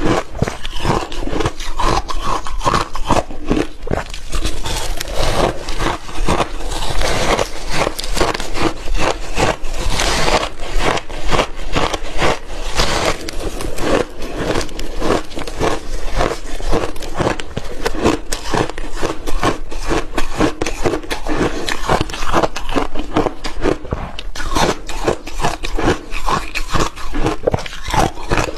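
Close-up crunching of frozen milky shaved ice being bitten and chewed: a steady run of crisp cracks and crackles.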